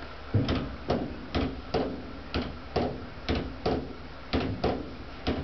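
A run of sharp knocks or taps at a fairly even pace, a little over two a second, each with a short ring, over a low steady hum.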